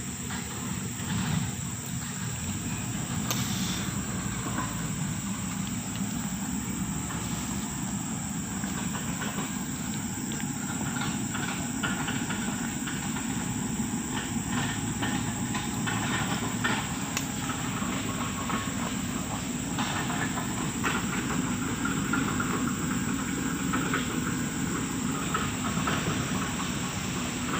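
Heavy diesel road-work machinery running steadily, a continuous low rumble with scattered rattles and clanks.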